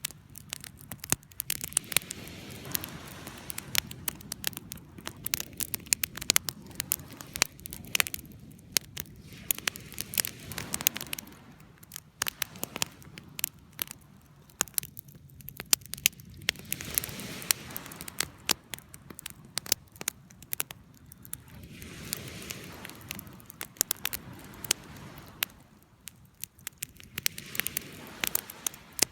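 Wood campfire crackling, with many sharp irregular pops and snaps over a soft low rush of flame that swells and fades every few seconds.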